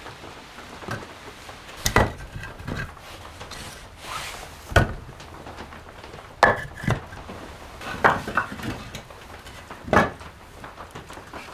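A handful of sharp knocks and clatters, about five, spaced a second or two apart, some with a brief metallic ring.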